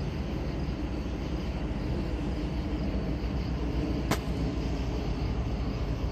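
Steady low rumble of an approaching diesel train, growing slightly louder, with a single sharp click about four seconds in.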